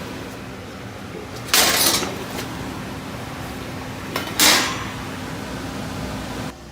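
Gas furnace running with a steady hum, broken by two loud, short rushing bursts about a second and a half in and again past the middle. Near the end the running sound drops off suddenly.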